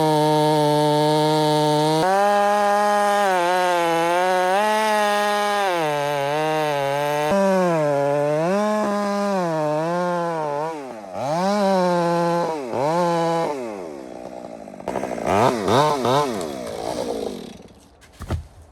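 Two-stroke chainsaw running at high revs while cutting into very hard Australian pine wood, its pitch dipping and recovering over and over as the chain loads up in the cut. After about ten seconds the revs swing sharply up and down, and near the end the saw falls away.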